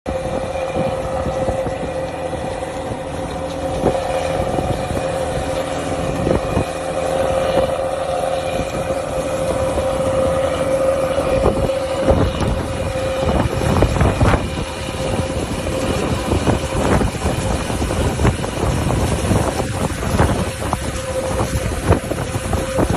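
Tractor engine running steadily with a constant whine, with irregular knocks and clatter that become more frequent in the second half.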